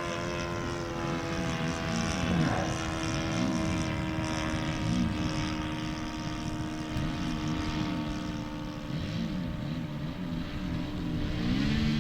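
Small model-aircraft engine (a 14cc Saito) and propeller running in flight, its pitch rising and falling again and again as the plane passes. It is running short of power, which the pilots put down to an engine needing tuning.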